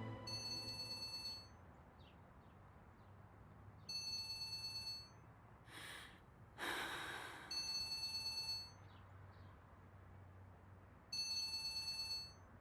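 A telephone ringing four times, each ring a trilling electronic tone about a second long, about three and a half seconds apart. Between the second and third rings come two short breathy rushes, like a sigh.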